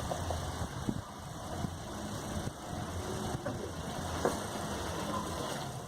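A motor vehicle's engine running, a low steady rumble.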